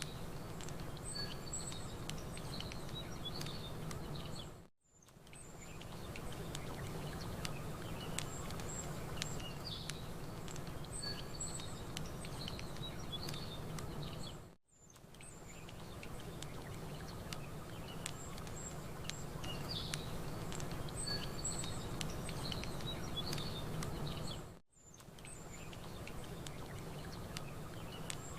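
Looped nature ambience: small birds chirping over the scattered clicks of a crackling campfire and a steady low rumble. The sound briefly fades out and back in about every ten seconds as the loop repeats.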